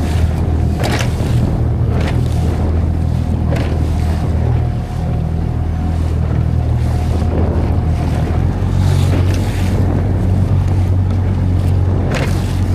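Tohatsu outboard motor running steadily, pushing a small boat under way, with a steady low drone and a faint thin whine through the first two-thirds. Wind buffets the microphone in repeated gusts over it.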